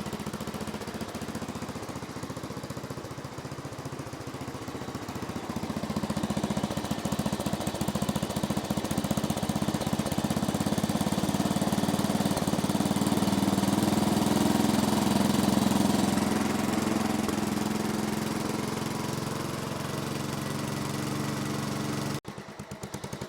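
Tecumseh 12 hp single-cylinder engine of a 1970s Massey Ferguson MF-12 garden tractor running with a steady rapid pulse. It grows louder over the middle and eases off again, with an abrupt change near the end.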